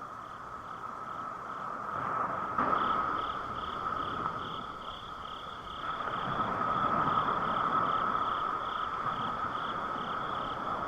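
Night ambience of evenly repeating insect- or frog-like chirps, about three a second, over a steady high hum, with a rush of noise that swells in the middle.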